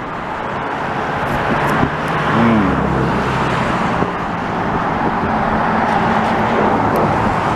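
Steady rushing roar of road traffic that swells slowly, with a brief low engine hum partway through.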